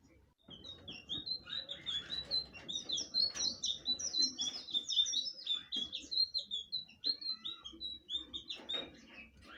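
Blue flycatcher (sikatan biru) singing a fast, continuous run of short, high chirping notes that begins about half a second in and goes on until near the end.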